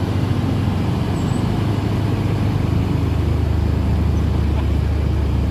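Heavy ten-wheel truck's diesel engine running steadily at low speed, a deep low hum that grows a little stronger about three seconds in.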